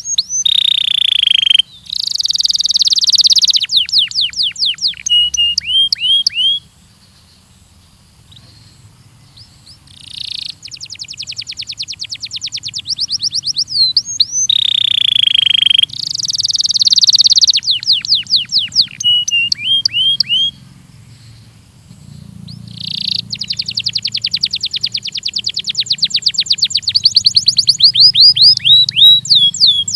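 Domestic canary (Belgian canary) singing: long, fast trills of rapidly repeated high notes, buzzy rolls and series of falling chirps. The song breaks off briefly about a quarter of the way in and again past two-thirds.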